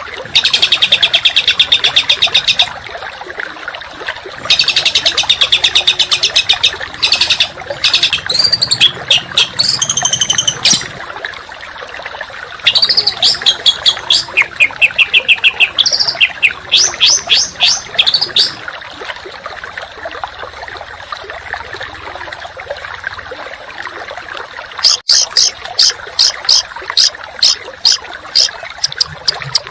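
Songbird masteran song: several bursts of fast, dense trilling and runs of sharp repeated whistled notes, the harsh rapid-fire 'tembakan' phrases used to tutor pet songbirds. The singing breaks off for about six seconds past the middle, leaving only a steady background hiss, then resumes near the end.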